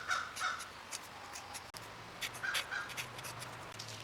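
A bird calling in short calls, two at the very start and two more about two and a half seconds in.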